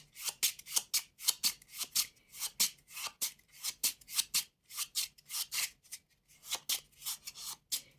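Playing cards being handled on a table: a rapid run of short, dry, papery snaps and flicks, several a second.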